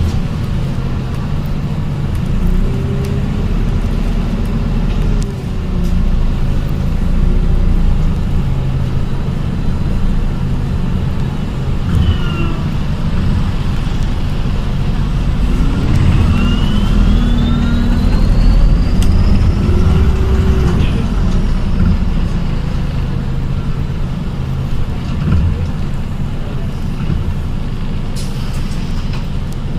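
ADL Enviro 400H hybrid bus with BAE Systems HybriDrive, heard from on board while moving: a steady low drivetrain rumble, with the electric traction motor's whine rising in pitch as the bus accelerates a little past halfway, then falling away.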